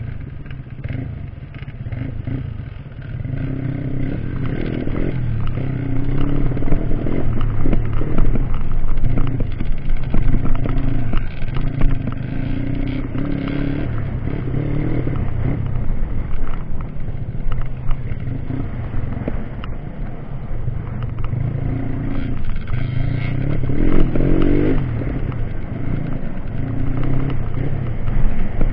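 Dirt bike engine running on a trail, revving up and down unevenly with repeated surges in throttle.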